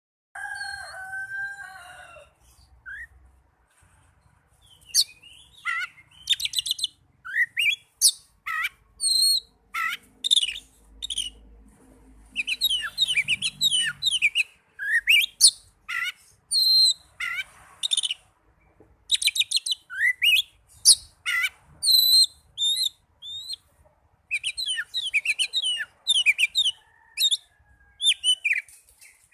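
Oriental magpie-robin (kacer) song: phrases of rapid high chirps, trills and whistles separated by short pauses.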